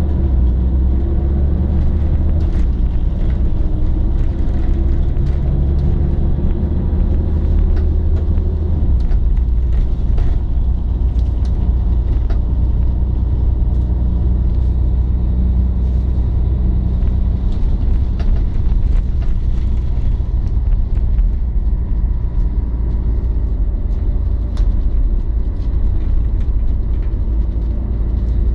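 Scania L113 CLL city bus with its 11-litre six-cylinder diesel running, a deep steady rumble whose note shifts a couple of times in the first ten seconds, with scattered light clicks and rattles.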